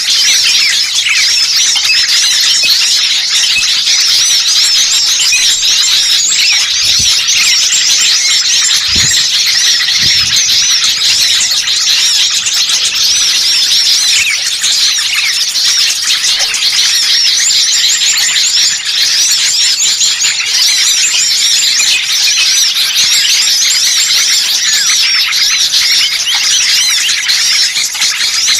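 A dense chorus of many small birds chirping and twittering at once, with rapid high calls overlapping without pause. It is a recording of a noisy small-bird flock ('burcil ribut') of the kind used as a lure to draw in wild birds.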